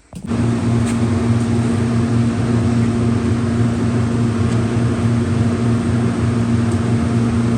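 An electric shop machine switches on suddenly and runs with a loud, steady mains hum and hiss.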